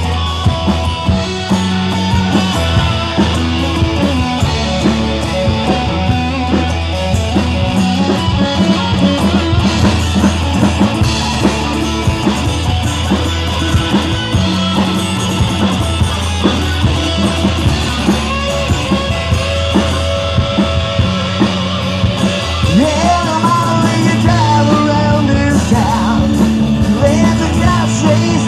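Rock music with drums and guitar, playing an instrumental passage between sung verses.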